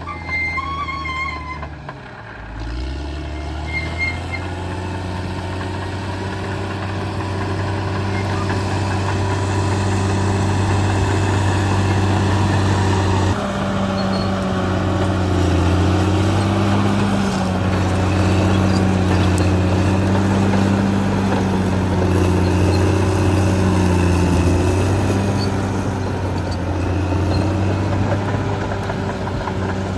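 Caterpillar D6R XL bulldozer's diesel engine running hard under load. Its pitch drops about two seconds in, then climbs back and holds, rising and falling a little as the load changes.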